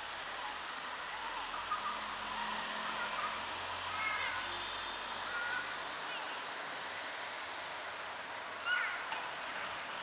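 Steady outdoor hiss with scattered short bird chirps, a few in the middle and the loudest just before the end, over a faint low rumble.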